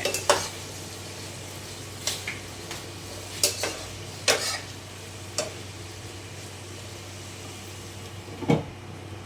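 A cooking utensil knocking and clinking against a cooking pot a handful of times, spaced a second or more apart, as vegetables are stirred and added.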